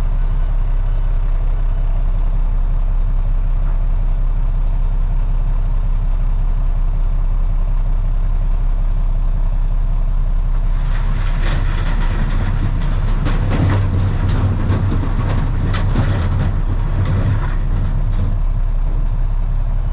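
Freightliner FLD dump truck's diesel engine idling steadily. Just past halfway, a loader bucket of riprap rock pours into the lined dump bed: a dense clatter of rock impacts lasting several seconds.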